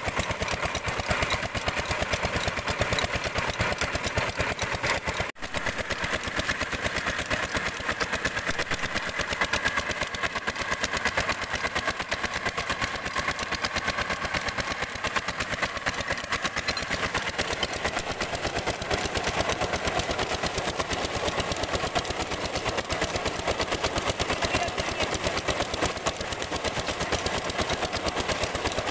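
Petter-type single-cylinder diesel engine running steadily under load, driving a tube-well water pump, with rapid, even exhaust beats. The sound breaks off for an instant about five seconds in.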